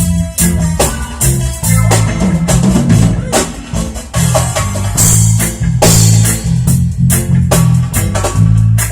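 Live band playing a song instrumentally: drum kit hits over a bass line, with some guitar.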